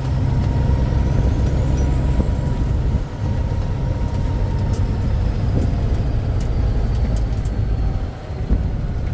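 Kenworth K100 cab-over truck's diesel engine running under load while driving, heard from inside the cab as a steady low rumble. The engine note drops briefly twice, about three seconds in and near the end.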